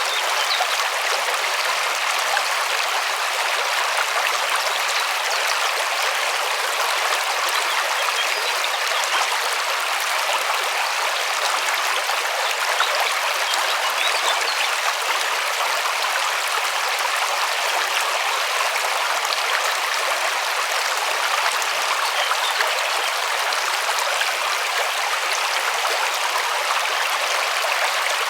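River water rushing and splashing over stones, a steady, even sound without change.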